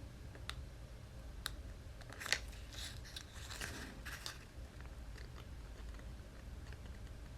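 Cardstock being handled: a couple of sharp clicks, then about two seconds of crackling, crunching paper noise with one sharp snap near its start.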